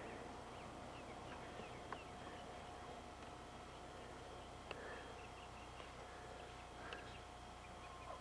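Faint chirping of small birds, many short calls repeating, over a steady low hum.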